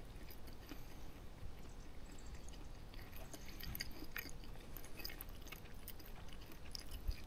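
A person chewing a mouthful of chicken and rice, with many faint small clicks scattered through, over a low steady background rumble.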